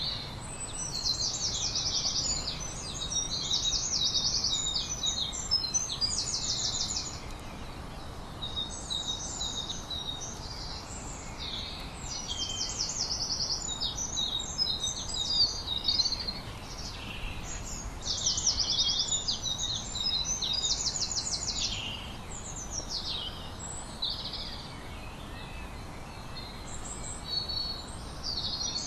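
A songbird singing phrases of high chirps and fast trills, each a couple of seconds long with short pauses between, over a steady low background noise.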